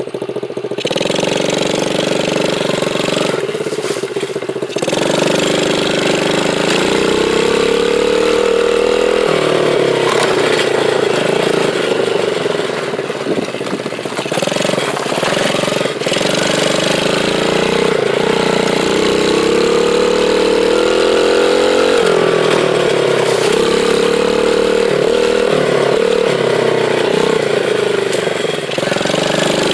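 Small dirt bike engine running as it is ridden, its note rising and falling with the throttle several times, with a brief dip about four seconds in.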